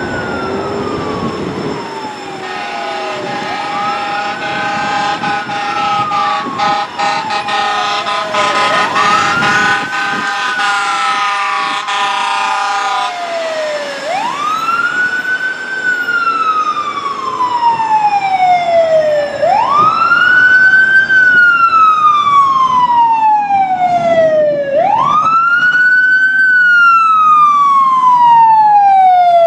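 2005 Pierce Arrow XT fire engine running on a call with its siren wailing, each cycle rising quickly and falling slowly, about every five and a half seconds. An air horn sounds in long blasts over it for roughly the first half, and the siren grows louder toward the end.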